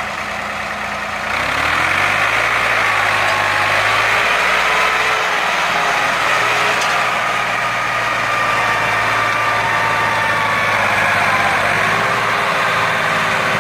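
Massey Ferguson 260 Turbo tractor's diesel engine revving up about a second in, then running steadily at the higher speed while pulling a heavily loaded sugarcane trolley.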